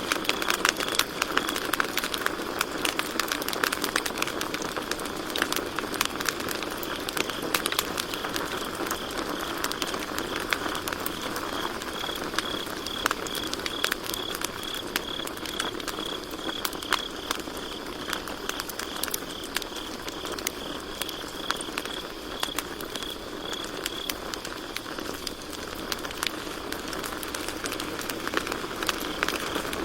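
Campfire crackling with dense, irregular pops and snaps over a steady hiss of burning wood. A cricket chirps in a fast, even pulse for about twelve seconds in the middle.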